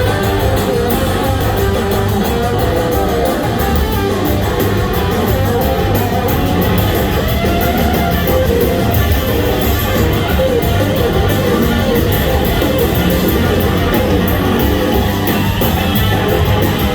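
Live blues-rock band playing at full volume, led by electric guitar.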